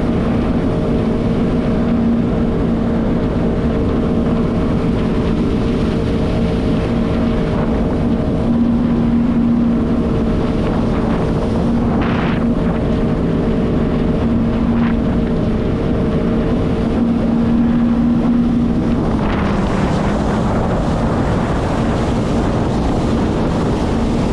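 Jet ski engine running steadily at speed, with wind on the microphone. The engine note dips briefly and picks up again about twenty seconds in.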